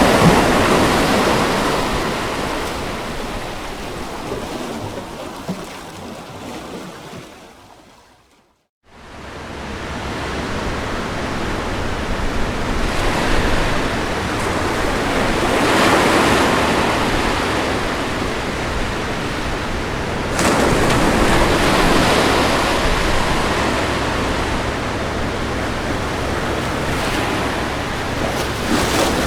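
Ocean waves washing in and receding, a steady surf noise that swells several times. About eight seconds in it fades briefly to silence, then comes back up, and it jumps suddenly louder a little after twenty seconds.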